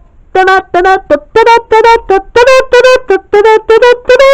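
A brass-like tune of about a dozen short, quick, detached notes moving among a few nearby pitches.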